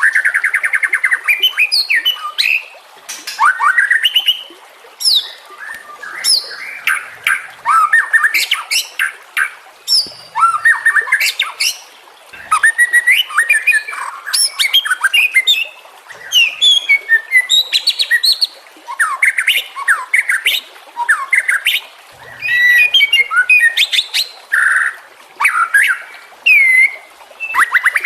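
White-rumped shama (murai batu) singing a long, varied song: clear whistled glides, quick trills and rattling chatters in bursts of a second or two, broken by short pauses.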